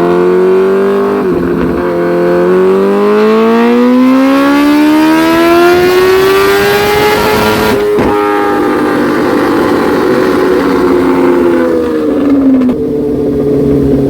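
Motorcycle engine held at full throttle under load, typical of a dyno pull. Its pitch climbs with a brief dip about a second in, keeps rising for about six seconds and breaks off sharply as the throttle is shut, then the revs fall away slowly.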